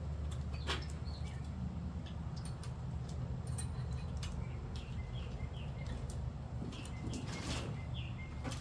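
Small birds chirping over a steady low rumble, with a couple of brief scraping or rustling noises, one about a second in and one near the end.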